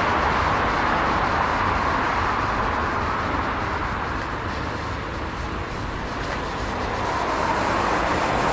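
Steady rushing noise of passing vehicles, dipping a little midway and swelling again near the end.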